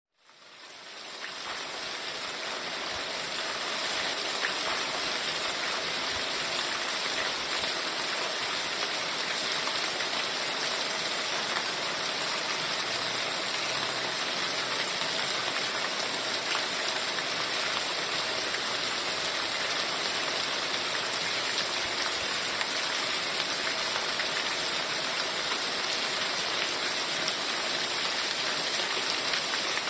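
Heavy rain falling in a steady, dense hiss, fading in over the first two seconds.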